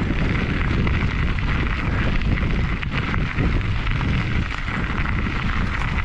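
Strong wind buffeting the rider's camera microphone, a steady rumbling noise, as the mountain bike rolls along.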